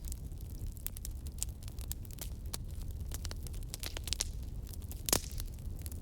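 Wood fire burning in a fireplace: a steady low rumble of flames with irregular crackles and small pops of the burning logs, the loudest pop about five seconds in.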